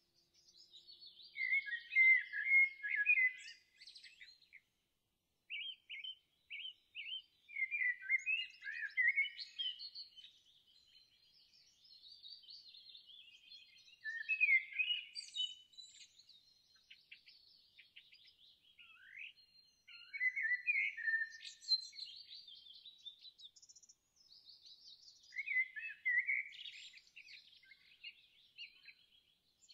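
Songbirds singing: a string of quick, twittering and warbling song phrases, each a second or a few seconds long, separated by short pauses.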